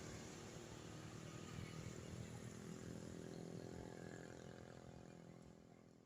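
Bus engine idling with a steady low hum, fading out toward the end.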